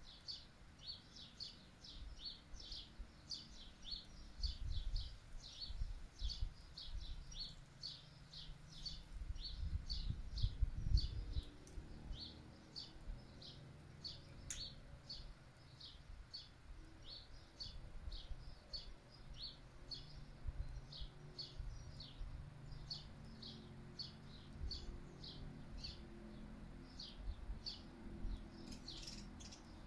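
A bird chirping over and over, about two to three short high chirps a second, with gusts of wind buffeting the microphone as a low rumble, strongest about ten seconds in.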